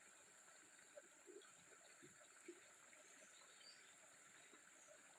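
Near silence: a faint steady high-pitched background hum, with a few small soft ticks.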